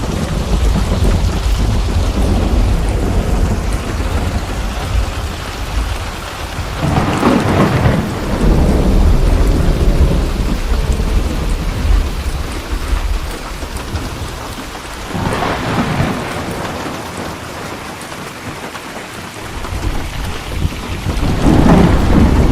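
Steady rain with rolling thunder and a deep rumble throughout. The thunder swells three times: about a third of the way in, just past the middle, and again near the end.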